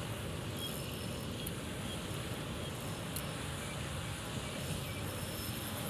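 Steady wind noise buffeting the microphone, an even rushing rumble with no break, and a few faint high chirps over it.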